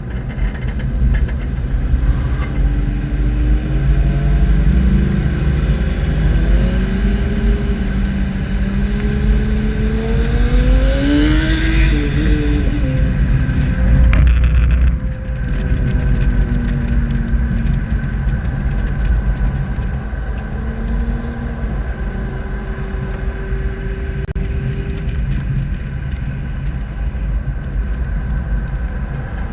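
Sport motorcycle engine revving hard as the bike closes in and passes, its pitch climbing in several steps to a peak about twelve seconds in, then dropping and falling away as it moves off. A heavy low wind rumble on the microphone runs underneath.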